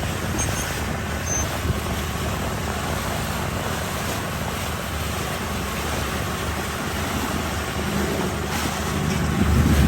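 Small fishing boat running under way: a steady engine rumble mixed with wind and water noise, growing a little louder near the end.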